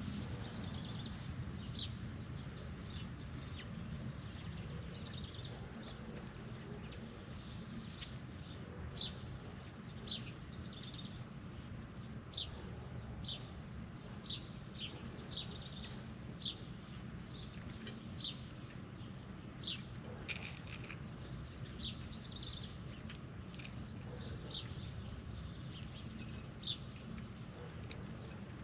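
Birds chirping outdoors in many short, sharp notes, over a steady low rumble. A high buzz comes in for a second or two several times.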